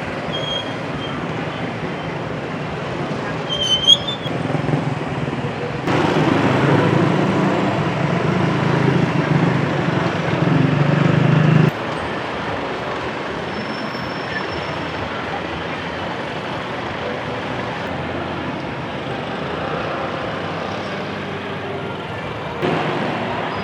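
Road traffic with motorcycles passing. A louder, deeper engine sound sets in about six seconds in and cuts off suddenly near the middle, and there is a brief high squeak about four seconds in.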